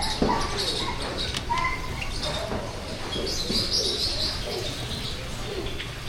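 Several aviary birds calling at once: scattered short, high chirps over shorter, lower calls.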